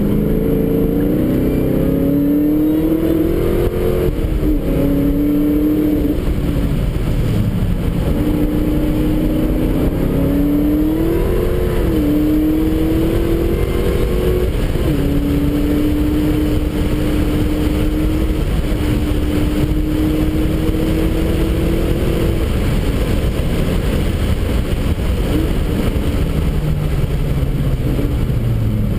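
Car engine heard from inside the cabin while lapping a race track, its pitch climbing under acceleration and dropping sharply twice as the driver shifts or lifts, then holding nearly steady for several seconds before falling away. Steady road and tyre noise runs underneath.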